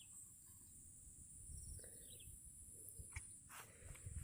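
Faint rural ambience: a steady high-pitched insect drone, with a short falling bird chirp at the start and again about two seconds in, and two soft clicks a little after three seconds.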